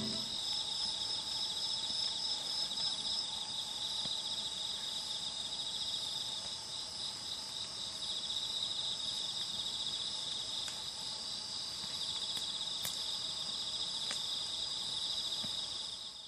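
Crickets and other insects chirping steadily in several overlapping high-pitched trills, with a few faint clicks; the sound cuts off abruptly at the end.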